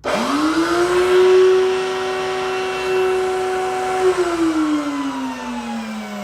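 Electric wood router mounted under a router table, switched on: its motor whine climbs quickly to a steady high pitch, runs at full speed for about four seconds, then is switched off and winds down with a falling pitch.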